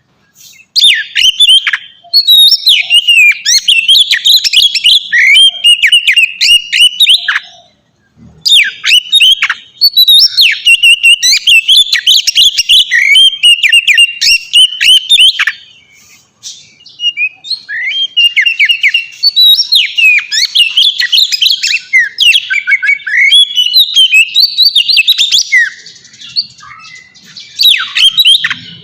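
Oriental magpie-robin (kacer) singing a loud, fast, varied song of whistles, slurred notes and chatter in long phrases, breaking off briefly about eight and sixteen seconds in.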